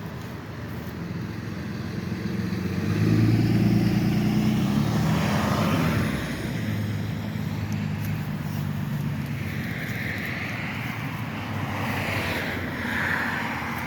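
Road traffic: motor vehicles driving past. The loudest goes by about three seconds in with a low engine hum, then more vehicles pass with tyre hiss.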